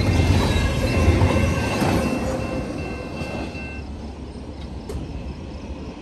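Freight train's cars rolling past, a heavy rumble of wheels on rail with thin steady squealing tones. The sound dies away over the second half as the train moves off.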